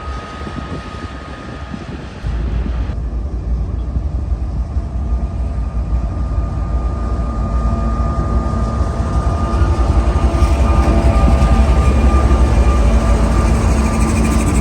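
Train rumbling past, its diesel locomotive engines giving a heavy low rumble with faint steady tones; it steps up about two seconds in and grows louder through to the end.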